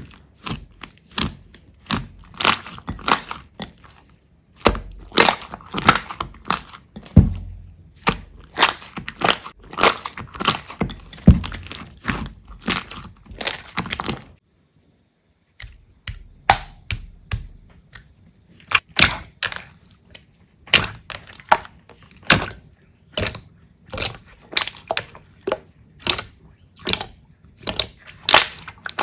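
Slime being squeezed and pressed close to the microphone, giving rapid crackling and popping clicks. There is a brief silent break about halfway through.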